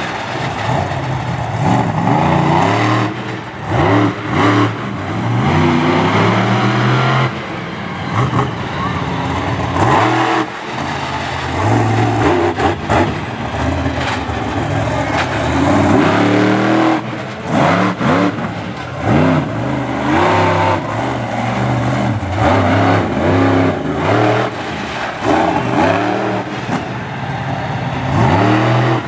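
Monster truck engine revving hard, its pitch climbing and falling again and again as the throttle is worked.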